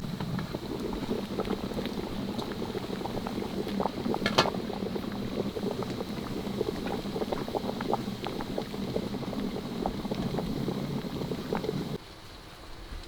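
A pot of liquid bubbling at a boil, a dense run of small pops and gurgles, with one sharper click about four seconds in. It stops suddenly near the end.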